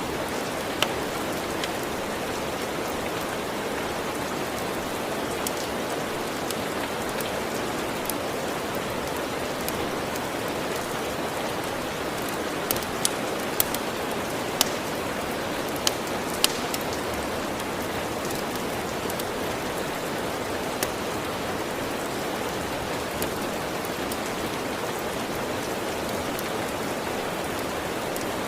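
Steady rain, with a few sharp crackling pops from a wood fire, most of them bunched together around the middle.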